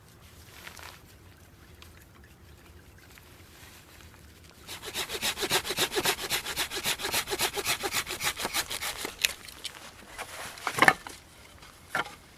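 Hand saw cutting through wood in fast, even strokes for about four seconds, followed by a loud knock and then a lighter one.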